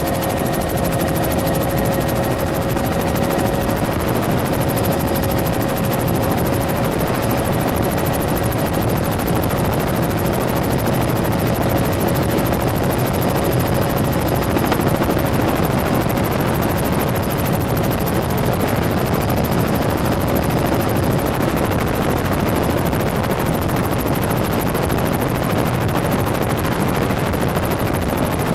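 Helicopter running steadily in flight, heard from inside the cabin: a loud, even rotor and engine noise with a faint steady tone in it.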